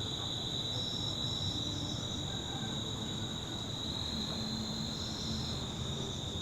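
A steady, high-pitched chorus of insects keeps up without a break. A few short chirps sit on top of it about a second in and again near the end.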